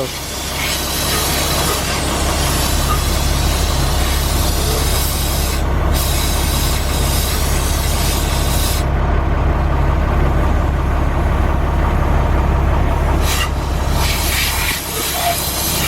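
Loud steady hissing of a cleaning jet playing over the International DT466E diesel's cylinder head, over the steady hum of the machine that drives it. The hiss thins out about nine seconds in and comes back about four seconds later.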